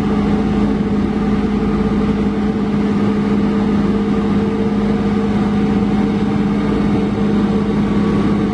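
Heavy diesel engine running steadily at constant revs, a loud even drone with a fixed pitch.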